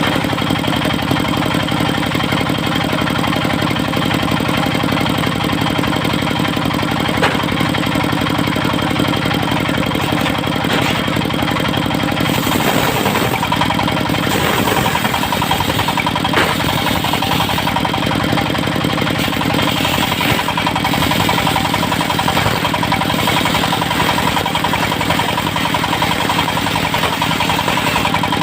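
Engine of a portable circular sawmill running steadily under a constant drone. About twelve seconds in the sound turns brighter and harsher, with a steady ringing tone added.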